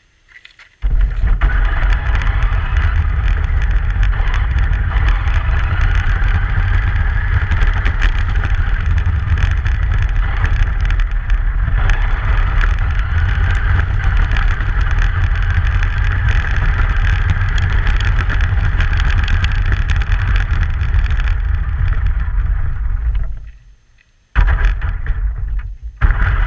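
Truck driving on a snowy road: a loud, steady rumble and rushing noise that starts abruptly, cuts out briefly near the end, then comes back.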